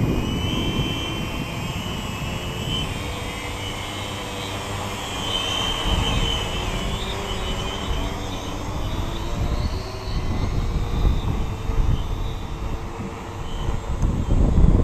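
Multicopter's electric motors and propellers whining in flight, several tones wavering in pitch as it holds position in gusty wind, with wind buffeting the microphone in a low rumble that swells and fades.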